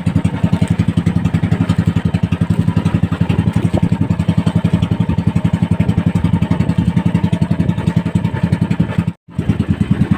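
Small boat engine running steadily with a rapid, even chug, broken by a sudden short gap near the end.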